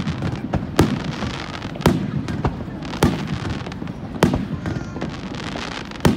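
Aerial firework shells bursting overhead in a display: a string of sharp booms, roughly one a second, with crackling and a low rumble between them.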